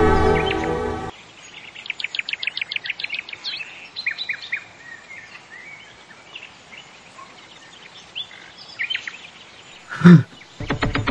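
Birds chirping: a quick run of about ten short, repeated high chirps, then scattered calls. Music fades out at the start, and a brief loud thump comes near the end.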